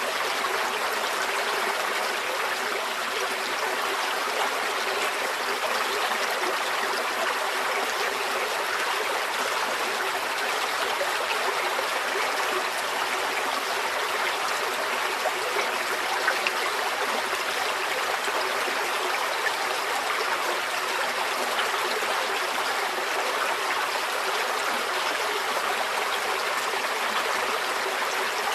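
Small stream flowing steadily over stones, a continuous rushing babble with fine trickling and splashing detail.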